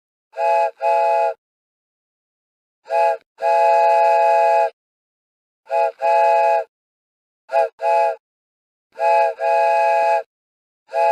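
A multi-note chime train whistle blowing in pairs of blasts, a short toot then a longer one, about six times over.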